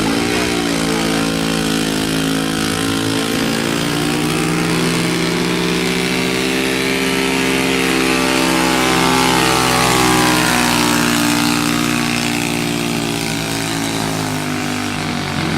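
Stock truck's engine running hard under load in a truck pull. The pitch climbs slightly and is loudest about two thirds of the way through, then drops near the end as the engine slows.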